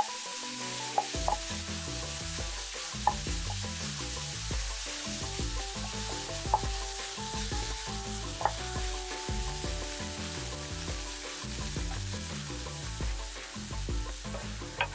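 Minced tofu and chopped vegetables sizzling in a nonstick frying pan while a wooden spatula stirs and scrapes them, with a few sharp clicks of the spatula against the pan.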